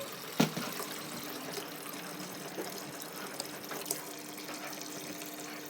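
Water running steadily from a tap into the tub of a Mueller Plus washing machine, filling it, with a single knock about half a second in.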